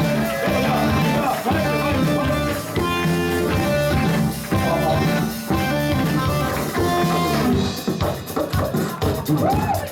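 A rock band playing live: electric guitar over a drum kit.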